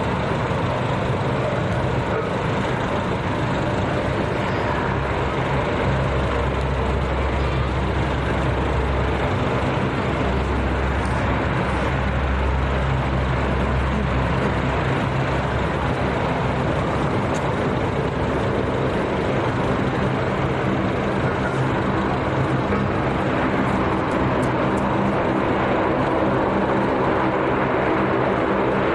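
Aircraft engines running steadily on the ground: a continuous loud rumble with a low droning hum that holds without a break.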